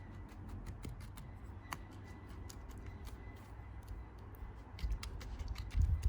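Cement work on a bird bath: scattered small clicks and scrapes, with a low rumble and a few dull thumps near the end.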